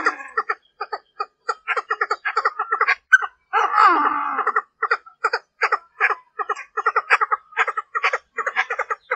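Female Chinese francolin (đa đa) calling: a fast series of short clucking notes, about three a second, broken twice by a longer harsh chattering burst, once at the start and once about four seconds in. It is the hen's lure call used to draw in and provoke cock birds.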